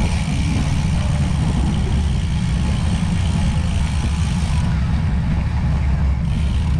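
Steady low rumble of wind buffeting the microphone while riding, with a high hiss that drops away about four and a half seconds in and returns near the end.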